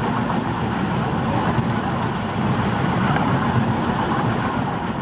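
Steam-hauled 15-inch-gauge park railway train rolling along the track: a steady rumble of wheels on rails with a rushing noise, no distinct beat.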